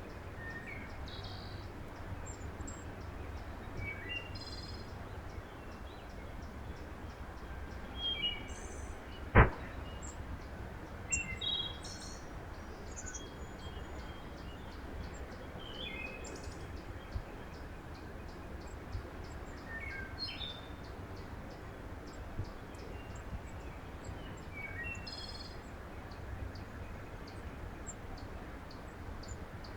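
Small songbirds chirping in short, scattered calls over a steady low background rumble. One sharp knock about nine seconds in is the loudest sound.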